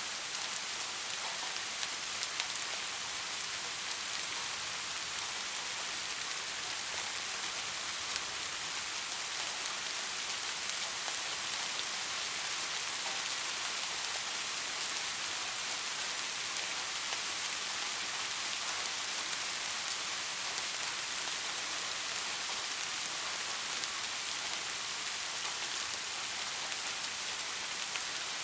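Steady rainfall pattering on a surface, an even hiss with scattered individual drop ticks.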